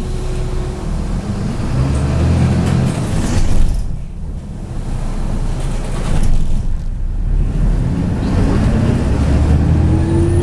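MAZ 103 bus's diesel engine and drivetrain running under way, heard inside the cabin, the rumble swelling and easing. A whine rises in pitch over the last two seconds as the bus picks up speed.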